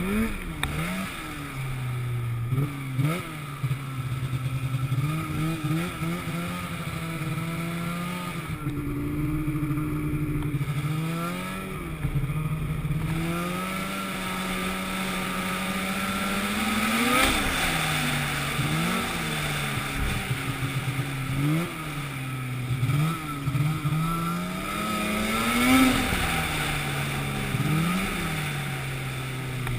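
An engine running and being revved up and down over and over, its pitch rising sharply and falling back every second or two.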